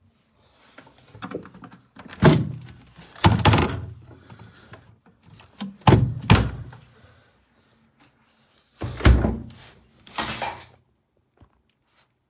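Mini fridge handled and its door opened and shut: a series of about six thuds and knocks, coming in roughly three pairs.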